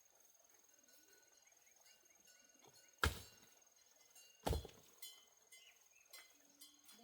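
Two heavy chopping strikes about a second and a half apart: a hand digging tool such as a hoe or mattock biting into the ground. A cricket trills steadily in the background, with faint bird chirps.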